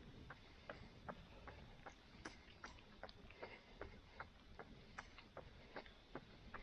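Footsteps on a road at a steady running pace: even, crisp ticks about two and a half times a second, over a faint hiss.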